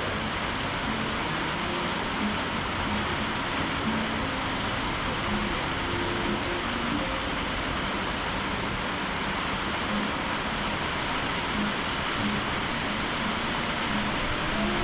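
Thunderstorm rain falling steadily, an even hiss with no break.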